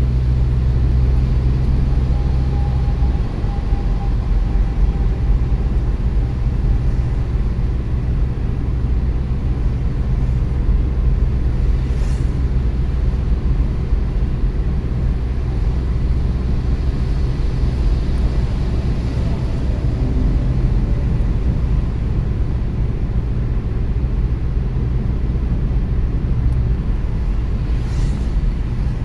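Car driving at a steady speed: a steady low rumble of engine and tyre road noise heard inside the cabin, with a couple of faint clicks.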